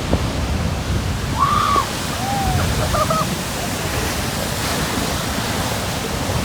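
Atlantic surf churning and washing over a rocky shore at high tide, a steady rushing noise, with wind on the microphone. A few faint short arched whistle-like calls come through between about one and a half and three seconds in.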